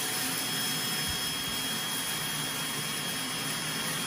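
Many robot vacuums running at once: a steady whir of their suction motors, with several high, steady whines on top.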